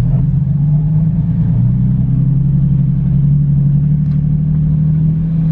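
BMW car's engine and exhaust droning steadily inside the cabin while driving; the pitch dips at the start and climbs back up about two seconds in as the car picks up speed.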